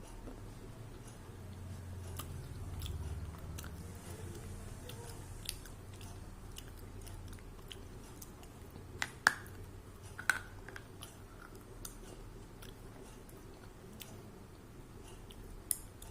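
A person biting and chewing crisp pieces of black clay, a run of sharp scattered crunches, the loudest two about nine and ten seconds in.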